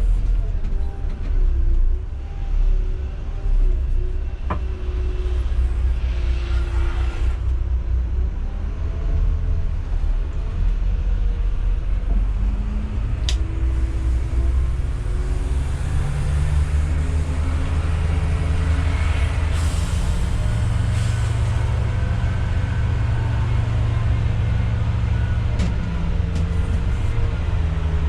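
Intercity coach's diesel engine running on the move, a steady low drone whose pitch rises and falls as it pulls and changes speed, with a few sharp clicks over it.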